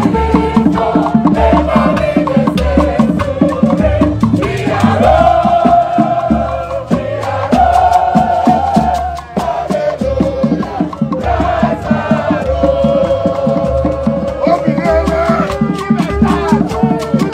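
Live Igbo ogene band music: rattles shaking in a fast, steady rhythm over a regular drum beat, with a voice singing long held lines over them.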